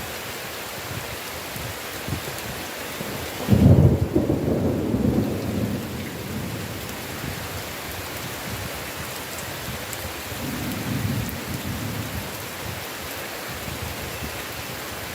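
Heavy steady rain, with a sudden loud clap of thunder about three and a half seconds in that rolls on for a couple of seconds, and a fainter roll of thunder around ten seconds in.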